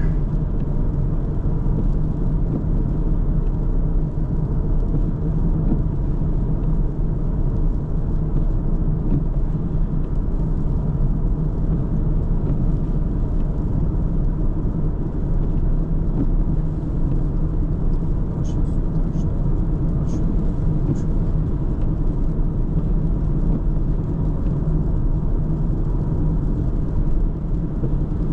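Steady low rumble of a car driving: engine and tyre noise at a constant pace.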